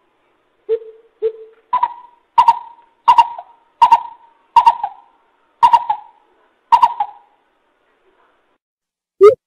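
Coucal (bubut) hooting: two short low hoots, then a run of seven evenly spaced higher hoots, each trailing off, before a pause near the end.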